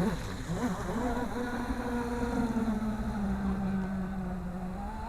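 Radio-controlled model boat's motor running with a steady buzzing whine, its pitch dipping and picking up again with the throttle about half a second in, then rising near the end.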